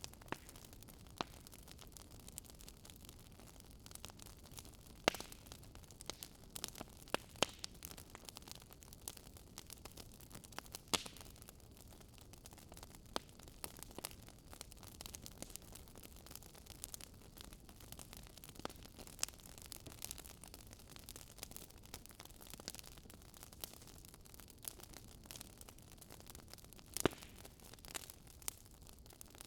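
Wood fire crackling in a fireplace: irregular sharp pops and snaps over a low, steady hiss, with a few louder pops scattered among them.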